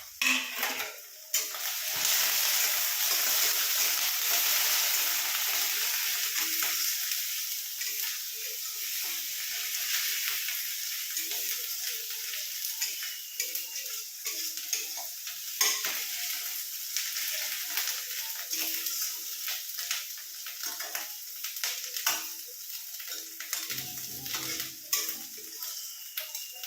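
Onion paste and chopped garlic sizzling in hot mustard oil. The sizzle jumps up about two seconds in as the garlic goes in, then slowly eases off, with a spatula clicking and scraping against the pan as it is stirred.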